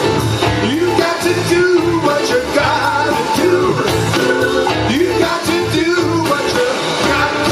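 Live blues band playing: bent notes over a steady bass line and regular drum hits.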